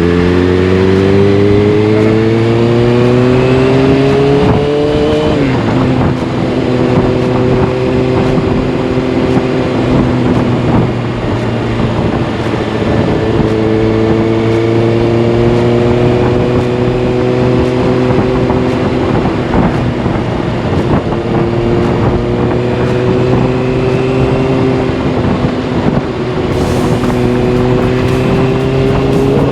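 Kawasaki ZX-6R inline-four engine through a carbon fiber Delkevic exhaust, riding under power. The engine note climbs for about five seconds and then drops sharply, holds fairly steady, climbs again and drops once more about two-thirds of the way through.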